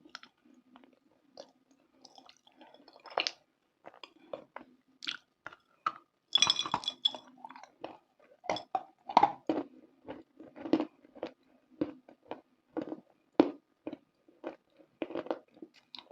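Close-up mouth sounds of a person biting and chewing something hard and brittle, with irregular crunches throughout and a dense, bright flurry of crunching about six seconds in. A faint low steady hum runs underneath.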